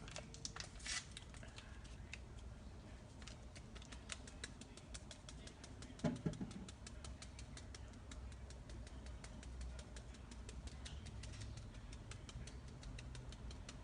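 A seasoning shaker being shaken over raw sliced chicken: a steady run of light, quick ticks. There is a brief louder low sound about six seconds in.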